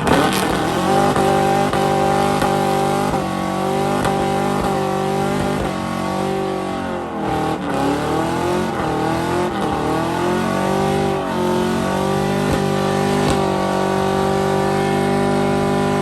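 Ford Crown Victoria V8 held at high revs during a burnout, with the tires spinning. The engine note stays steady, drops and climbs back several times near the middle, then holds high again.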